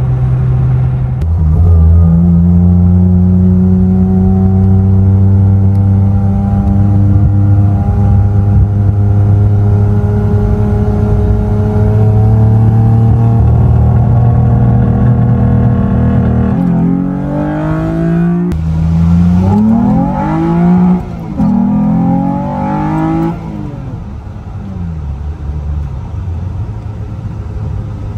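1991 Toyota MR2's engine heard from inside the cabin, pulling under acceleration: one steady engine note climbs slowly in pitch for about fifteen seconds. Then the revs swing up and down quickly several times through gear changes, and the engine settles at lower revs and a lower level near the end.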